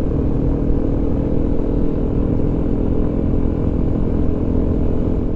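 Motorcycle engine running steadily close by.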